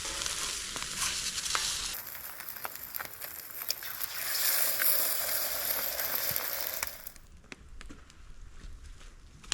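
Food frying in a pan: a steady sizzling hiss with small pops and crackles. It cuts off abruptly about seven seconds in, leaving a quieter background with occasional faint ticks.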